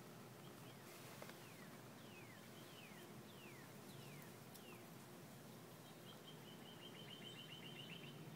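A bird calling faintly: a series of about six short whistles, each sliding downward, then a fast trill near the end.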